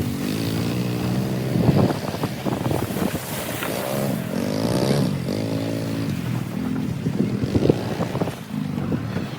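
Four-wheeler (ATV) engine running and revving up and down, its pitch rising and falling repeatedly, with a few knocks and bumps.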